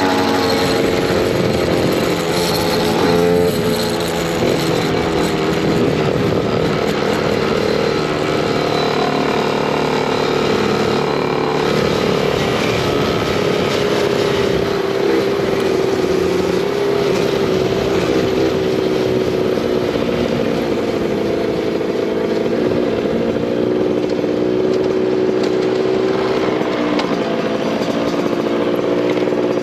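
Small motorcycle engine running steadily under way, its pitch rising and falling a little with the throttle, with wind and road noise.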